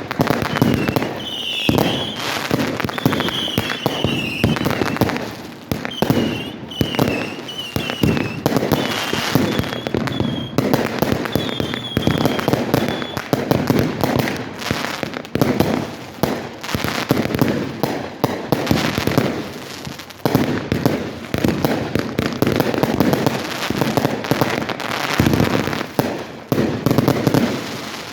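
Aerial fireworks going off in a dense, continuous run of bangs and crackling. Over roughly the first half there are short, high, wavering whistles.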